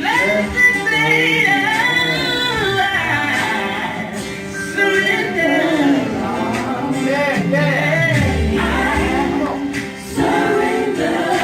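Gospel singing by several voices, with music behind them.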